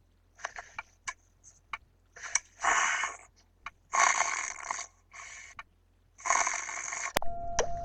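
Cartoon snoring: a run of noisy, rasping breaths, the longest coming about every second and a half, with a few small clicks between them. A short steady tone starts with a sharp click near the end.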